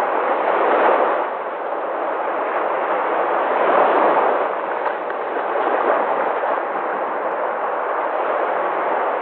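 Sea waves washing onto the shore: a continuous rush of surf that swells about a second in and again around four seconds in.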